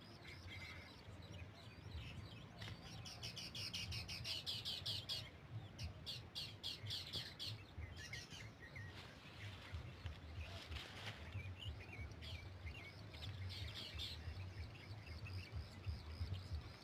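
Small birds chirping in rapid, repeated trills that come and go in spells, over a low, uneven rumble.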